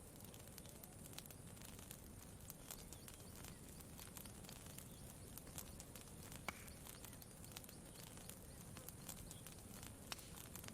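Campfire crackling quietly: scattered small pops and snaps, a louder pop about six and a half seconds in and another near the end, over a low steady hiss.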